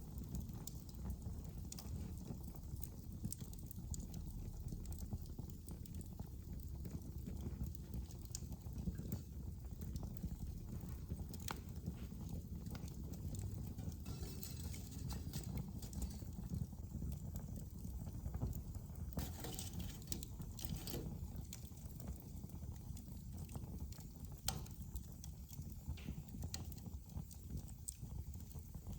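Wood fire crackling: a low steady rumble of flames with irregular sharp pops and snaps, in a few quick clusters.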